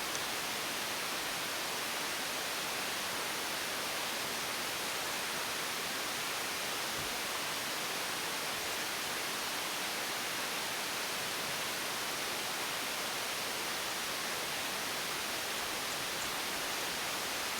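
Steady, even hiss with no distinct clicks or knocks.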